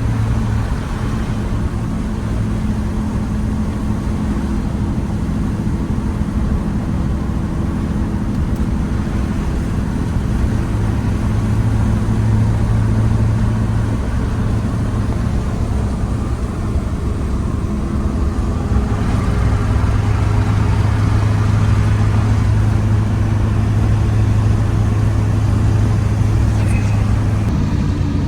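LB7 Duramax 6.6-litre V8 turbo-diesel with a 5-inch exhaust, cruising with a steady deep exhaust drone full of lows. The drone's pitch steps down a couple of times and shifts again near the end.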